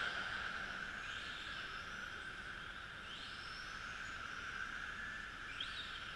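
Electric RC model trucks racing, their motors and gears whining steadily, with several rising whines as individual trucks accelerate.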